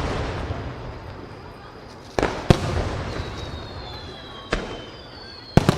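Aerial firework shells bursting: about four sharp reports, two a third of a second apart just after two seconds in, one near four and a half seconds and one near the end, each trailing off in a rumble. High whistling tones that slowly fall in pitch run through the second half.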